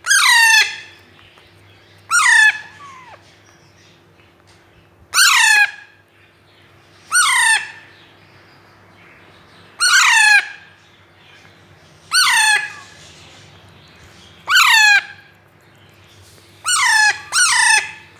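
Baby Alexandrine parakeets calling: nine loud, harsh calls, each about half a second long and sliding steeply down in pitch. They come every two to three seconds, with the last two in quick succession.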